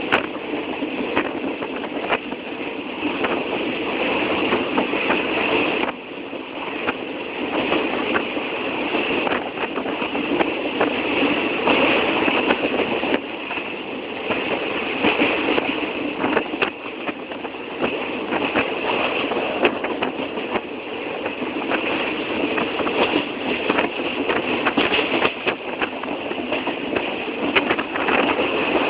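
Passenger train running on the rails: a steady rattling rumble with many sharp clicks and knocks scattered through it.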